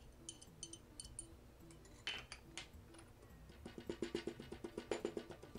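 A few faint clinks of a spoon against a stone mortar, then, from about three and a half seconds in, a pestle pounding in the stone mortar: a quick, even series of light knocks crushing ginger and spices.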